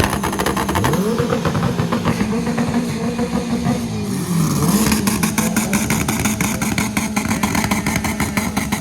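Car engine revving, its pitch climbing and falling again several times.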